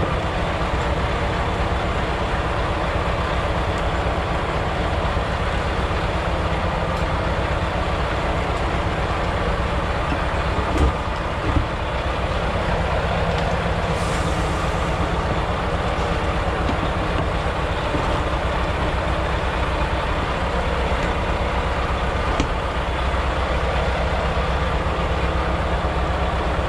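Semi truck's diesel engine running steadily, with a couple of short knocks about eleven seconds in and a brief hiss a few seconds later.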